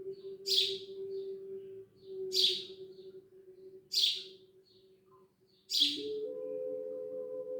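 A bird calling: four short, sharp high chirps spaced about a second and a half to two seconds apart. A steady low hum runs underneath and shifts to a higher, fuller tone about six seconds in.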